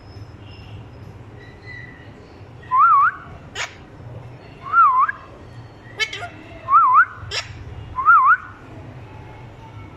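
A pet parrot whistling the same short wavy phrase four times, each a quick up-down-up whistle. Short sharp chirps come in between the whistles.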